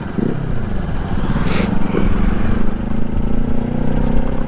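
Motorcycle engine running while riding, its note rising gently as the bike picks up speed, with a short hiss about a second and a half in.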